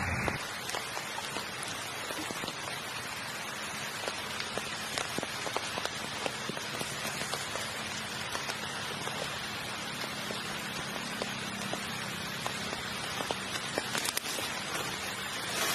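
Steady rain falling on leaf litter: a dense, even patter of many small drop ticks, with a brief louder rustle near the end.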